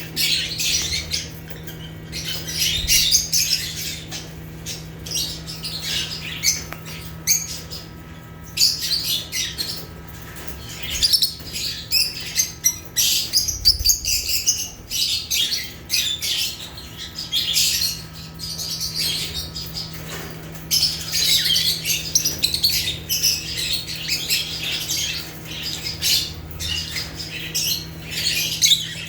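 A group of lovebirds (Agapornis) chattering: many shrill chirps and squawks overlapping almost without a break, over a steady low hum.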